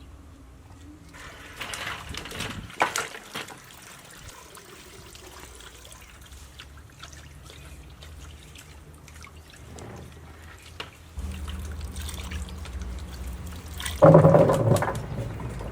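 Water pouring and trickling, with scattered clicks and knocks, and a louder short burst of sound about a second before the end.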